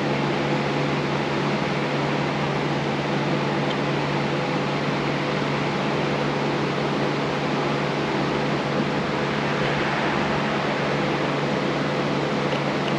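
Steady machine hum with an even rush of air, unchanging throughout.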